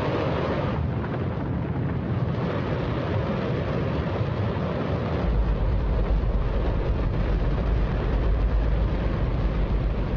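Hydrogen–oxygen rocket engine test-firing: a loud, steady roar, with its deep low rumble growing heavier about halfway through. Described as the loudest sound you could possibly conceive.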